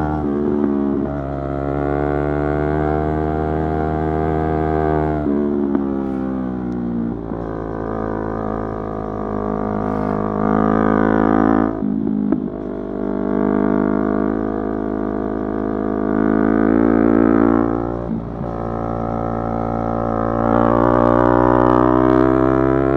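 Yamaha YZF-R3's 321 cc parallel-twin engine pulling hard under way. Its pitch climbs steadily and then drops sharply at gear changes, about three times.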